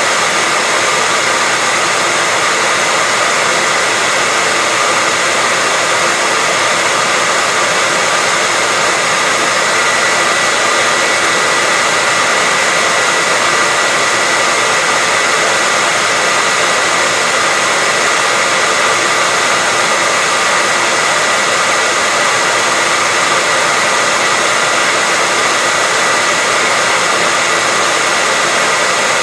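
Hairdryer running steadily: an even, unbroken rushing of air with a constant whine.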